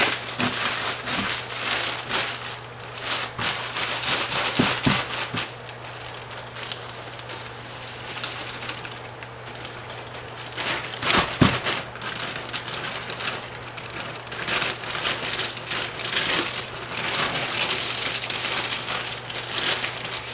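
Plastic bag crinkling and rustling in irregular bursts with small crackles as damp firework star composition is kneaded inside it by hand, working the water evenly into the powder.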